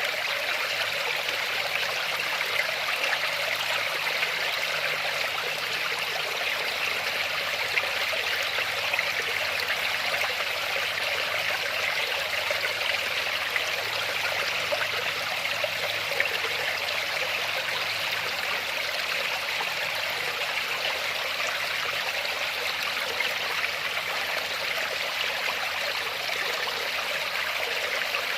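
Waterfall running in a steady, unbroken rush, mostly a bright hiss of splashing water with little deep rumble.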